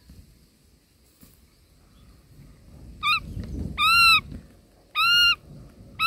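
Indian roller nestling calling: three loud calls in the second half, about a second apart, each arching up then down in pitch, the first one short.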